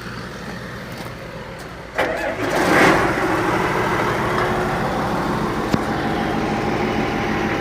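Heavy machinery engine running steadily; about two seconds in it suddenly gets much louder with a rushing noise, then settles at a higher steady level.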